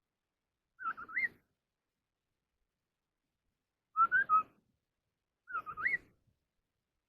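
A họa mi đất (a babbler) giving its whistled song in three short phrases, each a few clear notes that rise and fall. The phrases come about a second in, four seconds in and near the end, with silence between them.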